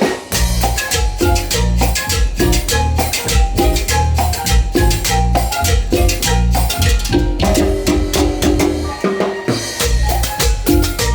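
Tropical Latin dance-band music in an instrumental passage: a steady beat on drums and percussion over a pulsing bass line, with a melody on top.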